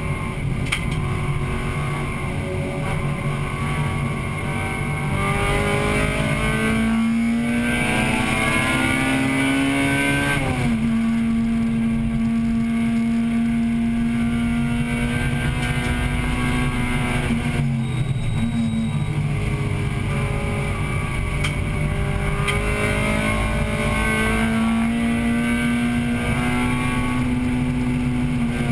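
Acura Integra Type-R's 1.8-litre VTEC four-cylinder engine, heard from inside the car while it is raced on track. The engine pitch climbs under acceleration, drops sharply at an upshift about ten seconds in, and holds steady for several seconds. It falls away again around eighteen seconds, then climbs once more.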